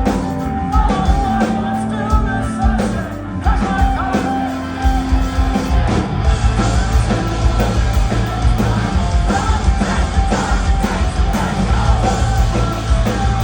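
Post-hardcore band playing a song with yelled vocals over distorted guitars, bass and drums; the full band comes in heavier about five seconds in.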